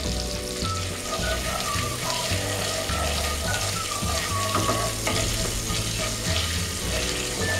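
Ginger paste and whole spices sizzling steadily in hot oil in a kadai, while a wooden spatula stirs them around the pan.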